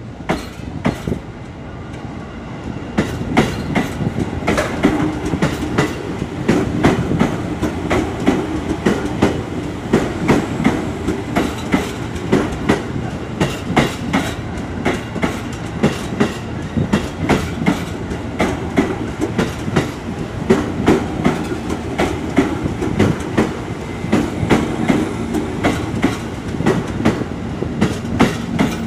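KRL electric commuter train running close past the platform, its wheels clacking over the rail joints in a quick, steady run of clicks over a rumble. It gets louder about three seconds in, with a low hum coming and going underneath.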